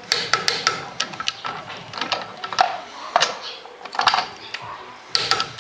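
Click-type torque wrench ratcheting in short bursts of sharp metallic clicks as wheel nuts are run down to 10 kgf·m; its click marks the set torque being reached.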